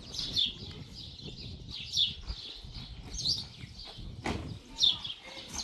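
A bird calling over and over with short, high, falling chirps, roughly one or two a second, with a single sharp knock a little after four seconds in.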